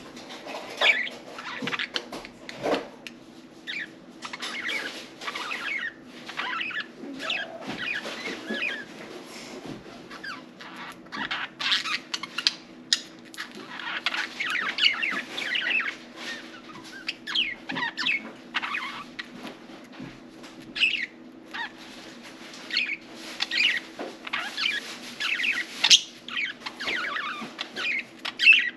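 Budgerigars chirping and chattering, a busy run of short high chirps and warbles with occasional louder squawks.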